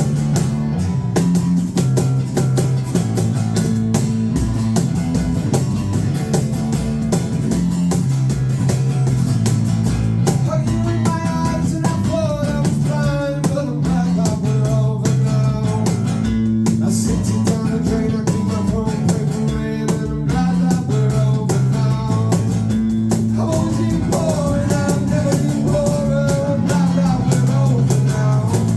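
Live rock band playing: guitars, bass and drum kit, with a voice singing from about ten seconds in.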